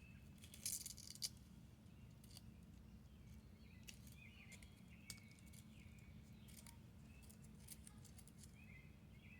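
Near silence with a low steady hum, a few faint clicks and rustles about a second in, and faint high chirps now and then.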